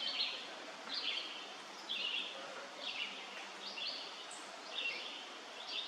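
A bird calling over and over, one short, high, down-slurred note or phrase about once a second, with faint outdoor background hiss.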